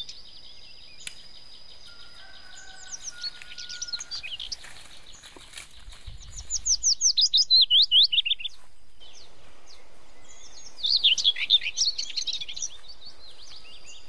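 Wild bird calling: a rapid run of sharp, downward-sweeping chirps, about six a second, lasting about two seconds, then a second run a few seconds later.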